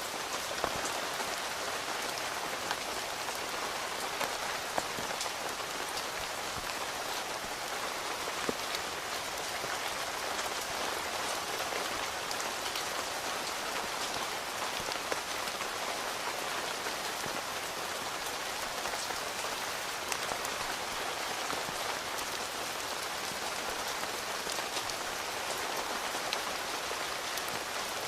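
Steady rain falling on a tent, a dense even hiss with scattered sharper taps of single drops striking the fabric.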